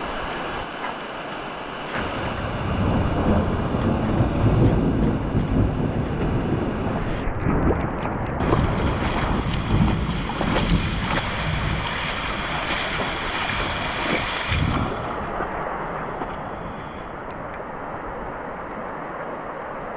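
Wind buffeting the microphone over a steady rushing noise, with gusty low rumbling through the middle and a calmer stretch near the end.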